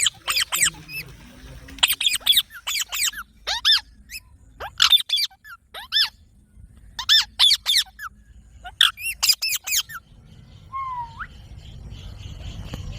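Green parrots giving short, shrill screeching calls in quick clusters of two to four, with brief pauses between clusters. The calls stop after about ten seconds, followed by one faint rising call.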